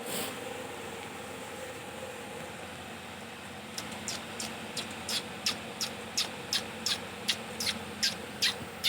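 Young rose-ringed parakeets calling: a run of short, high calls, each falling in pitch, about three a second, starting about four seconds in. Underneath is a steady low hum like a fan.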